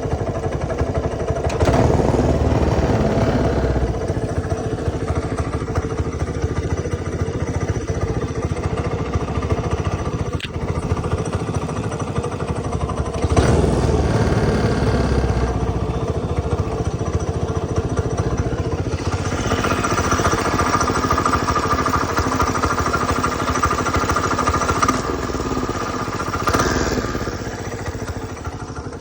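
Go-kart engine with a newly fitted 30 mm carburetor running steadily, getting louder several times: briefly about two seconds in, again around thirteen seconds, and for a longer stretch in the second half.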